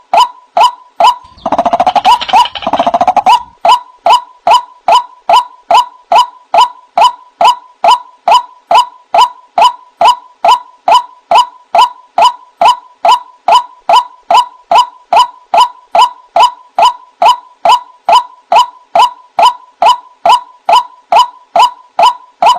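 White-breasted waterhen (ruak-ruak) calling: a steady, monotonous run of short clipped notes repeated about two and a half times a second. A harsher, rougher stretch of calling is layered over it about one and a half to three seconds in.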